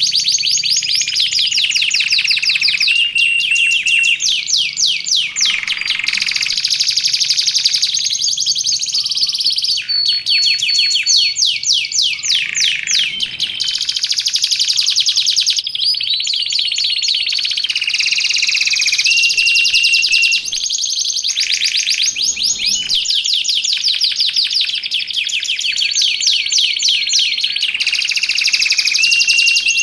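Domestic canary singing a continuous, loud song of fast trills and rolls broken by clear held whistled notes. The phrase changes every few seconds, as in a canary going full out.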